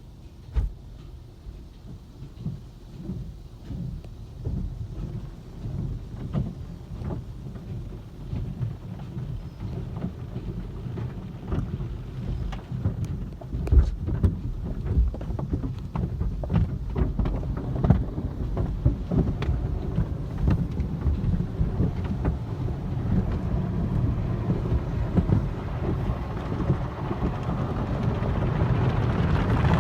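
Belanger car wash tunnel at work: water spraying onto a car with a low rumble, and cloth wash strips slapping and thudding irregularly against the body. The sound grows steadily louder, with a rising hiss near the end.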